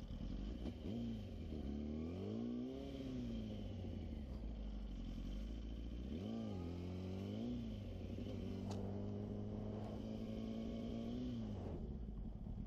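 Sport motorcycle engine under way, its pitch rising and falling several times as the rider rolls on and off the throttle, then holding steady for about three seconds before dropping off near the end, over a rush of wind noise.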